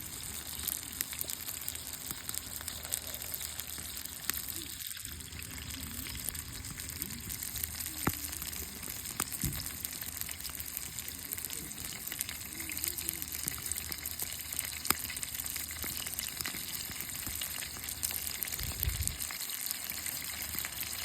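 Hamburg steak sizzling on a camping grill: a steady frying hiss with scattered small pops.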